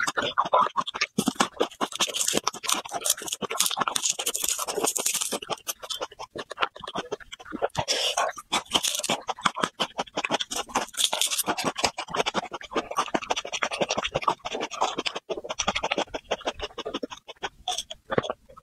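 Close-miked chewing of garlic cloves: a dense run of crunching and mouth clicks, with short pauses.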